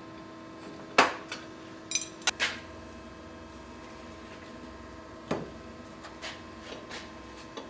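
Metal parts clanking and clinking: a sharp knock about a second in, a quick run of knocks a second later, then a few lighter taps, over a steady electrical hum.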